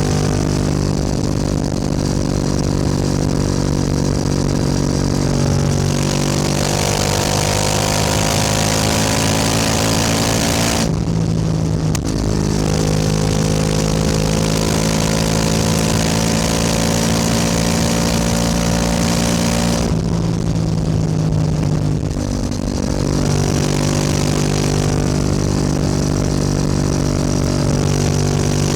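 Yamaha R7's 689 cc parallel-twin engine under way, pulling steadily with its pitch slowly climbing. The engine note briefly drops away about eleven seconds in, and again for a couple of seconds around twenty seconds in, as if for a gear change or throttle lift, then picks up again.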